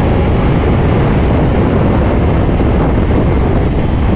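Heavy wind noise on a motorcycle rider's microphone, a loud, steady rumble from the gnarly dust-storm wind while riding a Kawasaki Ninja 500.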